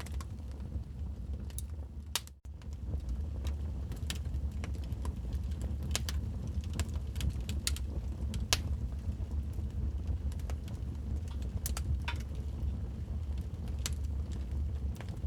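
Wood fire crackling: irregular sharp pops and snaps over a steady low rumble, with a brief drop-out about two seconds in.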